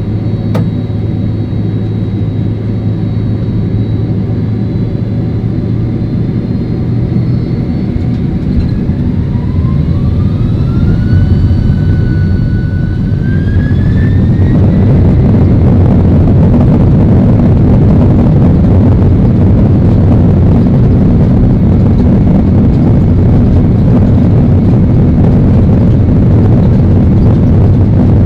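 Boeing 767-300 jet engines spooling up. A whine climbs in pitch over several seconds, levels briefly, climbs again, and then gives way to a loud, steady roar, typical of takeoff thrust being set.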